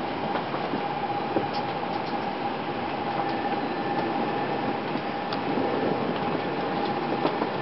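Cabin sound of an N700 series Shinkansen pulling out of a station: steady running noise with a constant high-pitched hum and a few light clicks.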